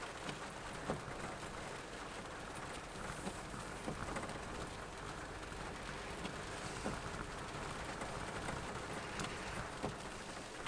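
Steady heavy rain, with irregular individual raindrops ticking sharply, over a low steady rumble.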